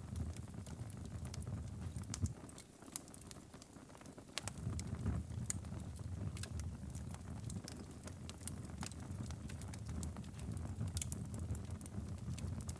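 Wood fire crackling, with irregular sharp pops and snaps over a low steady rumble. The rumble drops away briefly a few seconds in, then returns.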